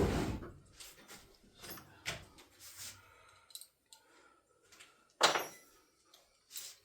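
Metal tools clinking and clattering as they are rummaged through, with a sharp clank right at the start and another about five seconds in.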